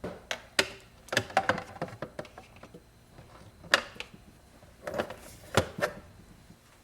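Irregular clicks and knocks of plastic containers and packets being handled and set into a freezer, with a brief rustle about five seconds in.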